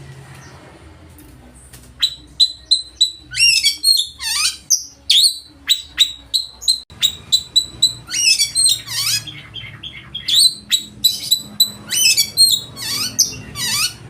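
Oriental magpie-robin singing loudly: after about two seconds of low hum, a fast, varied string of sharp chirps, whistles, falling sweeps and trills. A steady low hum runs underneath.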